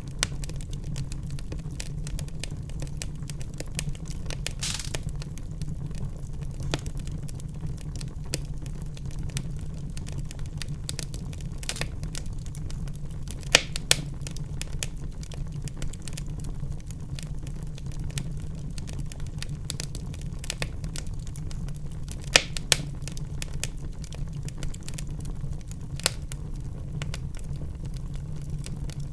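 Wood fire in a fireplace crackling: irregular snaps and pops, a few of them louder, over a steady low rumble of the flames.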